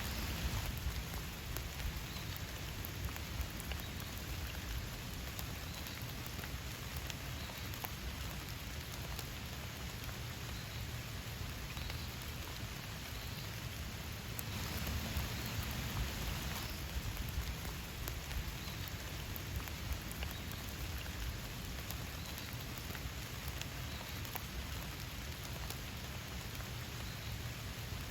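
Steady rain falling, a constant hiss with many small drops pattering on surfaces, briefly a little heavier about halfway through.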